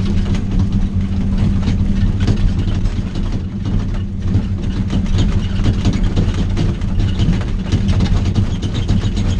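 Heavy diesel engine of a logging machine running steadily, heard from inside its cab as it travels over a rocky road, with frequent knocks and rattles throughout.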